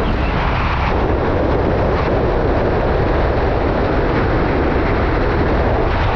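Steady rush of wind on the microphone mixed with the running of a moving motorcycle.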